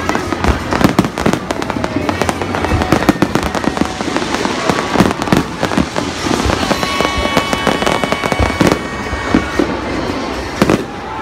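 Aerial firework shells bursting and crackling in a dense, continuous run of bangs.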